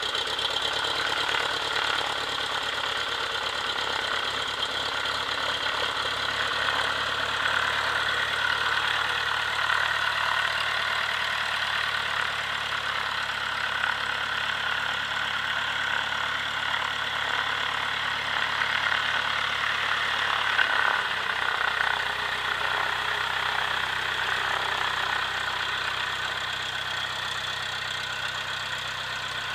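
Cessna 172P's four-cylinder Lycoming O-320 engine running steadily at low rpm just after a cold winter start. The engine speed shifts slightly about two-thirds of the way through.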